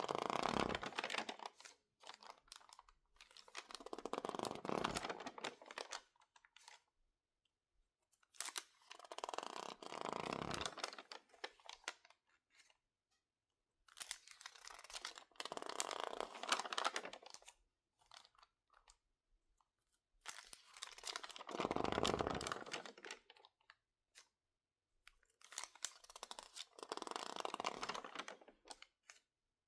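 Stiff, water-warped magazine pages crinkling and crackling as they are squeezed and handled, in six separate bursts of a few seconds each with short quiet pauses between.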